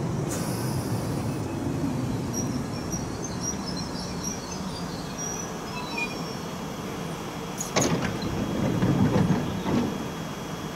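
London Underground 1973 Stock train standing at the platform: its sliding doors close near the start, then its equipment gives a steady low rumble. About eight seconds in there is a sharp clunk, followed by a louder rumble for a couple of seconds.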